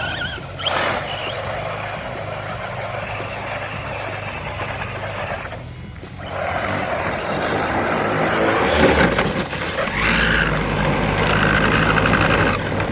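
ARRMA Senton RC short-course truck driving: a high electric-motor whine over a steady rushing noise, dipping briefly about six seconds in, then louder for the rest.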